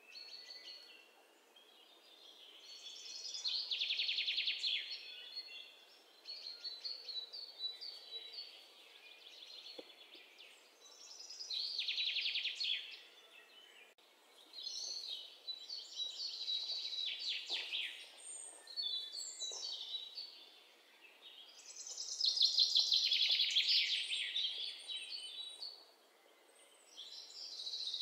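Songbirds singing: phrases of rapid, high trills and chirps lasting a second or two, repeating every few seconds.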